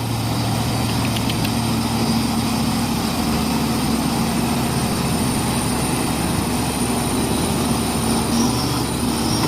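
Heavy truck's diesel engine running at steady high revs under heavy load as the truck struggles through a deep mud hole.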